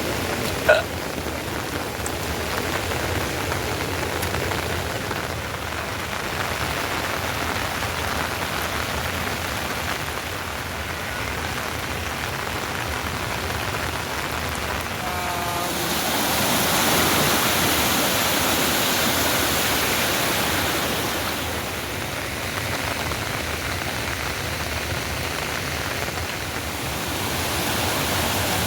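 Heavy rain falling steadily. There is a sharp knock about a second in, and the rain swells louder and hissier for several seconds past the middle before easing back.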